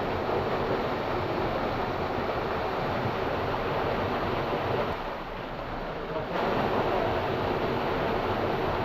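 Steady rushing of water in a mountain canyon stream. It drops for about a second and a half around five seconds in, then comes back.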